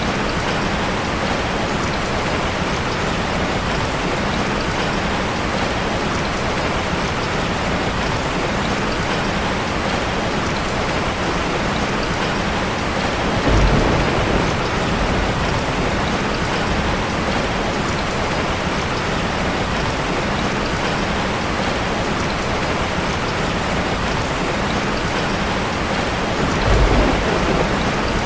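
Heavy rain falling steadily in a dense, even hiss. Two brief low rumbles swell up, one about halfway through and one near the end.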